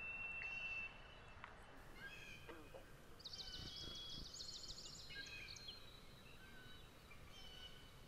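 Songbirds calling: a held whistle at the start, scattered high chirps, and a fast, high trill about three seconds in that lasts a couple of seconds.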